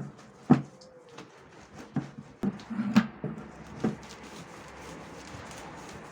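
Cleaning sounds: six sharp knocks and clatters of things being handled and set down over the first four seconds, then a steady rushing noise.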